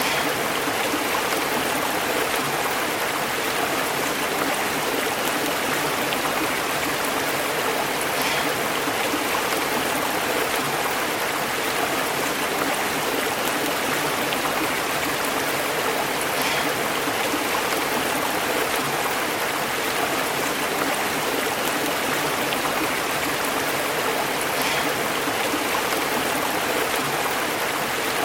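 A stream burbling and bubbling over rocks: a steady, even rush of flowing water.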